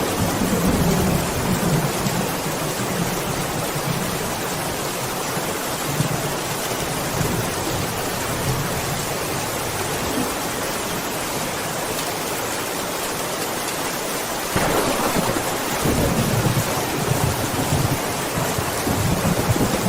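Steady heavy rain with rolling thunder rumbling low underneath; a fresh, louder roll of thunder sets in about three-quarters of the way through and rumbles on.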